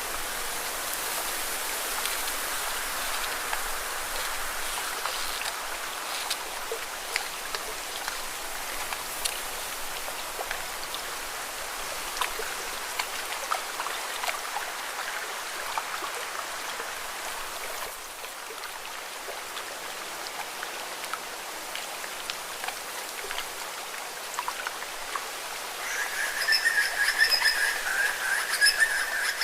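Lake water splashing against rocks: a steady wash of many small splashes and drips. Near the end a frog starts a high, pulsing trill.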